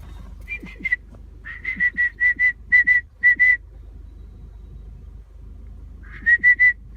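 A bird calling: short, clear whistled notes at a steady high pitch, repeated in quick runs of two to six notes, with a pause of a couple of seconds before a last run near the end.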